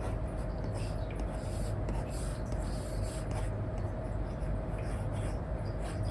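Apple Pencil nib scratching across a paper-like film on an iPad screen in short, irregular strokes as a drawing is coloured in. A steady low hum runs underneath.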